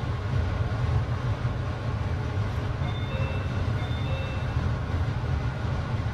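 West Express Ginga sleeper train running, a steady low rumble heard inside the carriage from the berth. A faint high tone sounds briefly about three seconds in.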